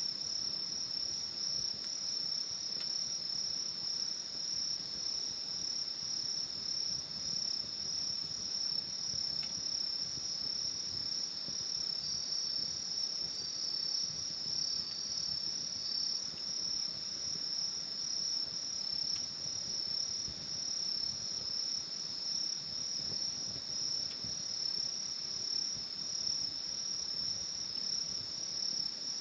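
Steady high-pitched chorus of crickets, with a second, slightly lower trill joining in briefly around the middle.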